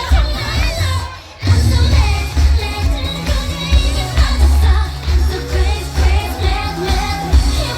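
Live K-pop performance: a female singer sings over a pop backing track with a heavy bass beat. The music drops out briefly about a second in, then comes back in.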